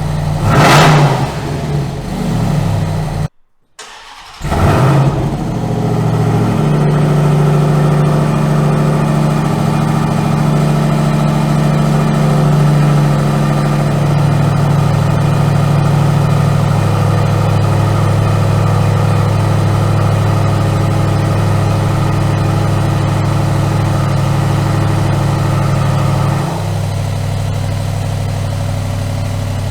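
The supercharged 6.2-litre V8 of a Dodge Ram TRX, heard through an exhaust with bypass cutout valves. It gives a loud burst of revving, goes briefly silent, then gives another burst that settles into a steady, deep idle. The idle drops a little in pitch partway through and gets slightly quieter and duller near the end.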